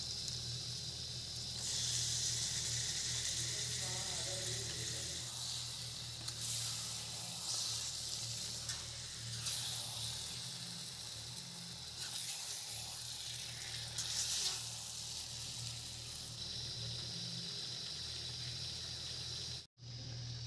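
Chicken pieces sizzling in hot oil and onion masala in an iron kadai, the sizzle swelling in surges as they are turned with a metal ladle, over a steady low hum. The sound cuts out for a moment near the end.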